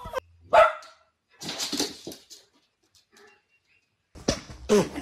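Dog barking: one sharp bark about half a second in and more barks near the end, with a scuffling noise in between.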